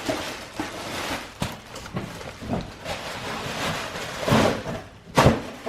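Handling noise from vacuum cleaner parts being fitted together: uneven rustling with a few knocks, the loudest near the end.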